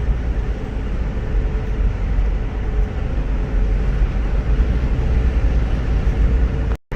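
Car driving, heard from inside the cabin: a steady low road and engine rumble with a faint steady hum. The sound drops out completely for a moment near the end.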